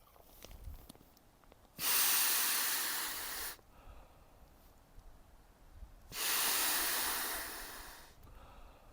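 Two long hissing rushes of air, each under two seconds and about four seconds apart; the first starts and stops abruptly, the second swells in and fades away.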